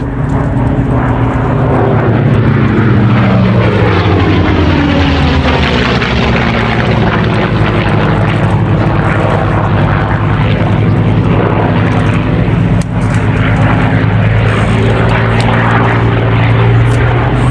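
Vought F4U Corsair and North American P-51D Mustang flying past together, their piston engines (a Double Wasp radial and a Merlin V-12) droning loudly. The engine note falls in pitch as they pass a couple of seconds in, and it swells again near the end.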